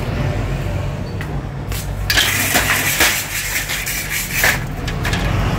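Steady low hum of an idling car engine, with loud scraping and rustling of the phone being handled close to the microphone from about two seconds in.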